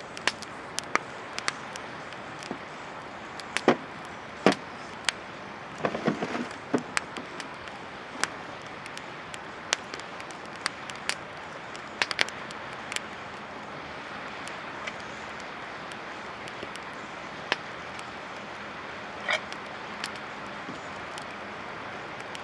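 Campfire crackling, with sharp pops at irregular intervals over a steady hiss and a brief flurry of cracks about six seconds in.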